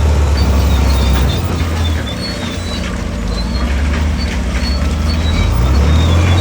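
Heavy diesel engine of earthmoving machinery running. Its deep note eases off about a second in and builds back up near the end.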